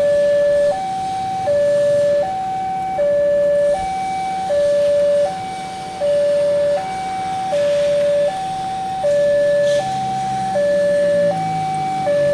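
Railway level-crossing warning alarm sounding its electronic two-tone signal, a higher and a lower tone alternating about every three quarters of a second, warning that a train is approaching. A faint low rumble comes in near the end.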